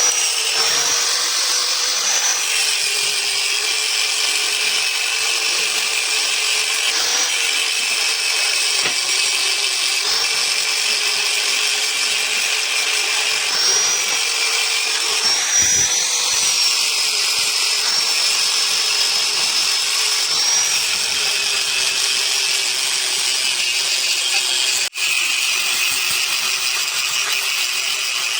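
Electric power tool running continuously on metal, a steady high whine over a hissing grinding noise, its pitch sagging slightly and recovering as the load changes. It cuts out for an instant near the end.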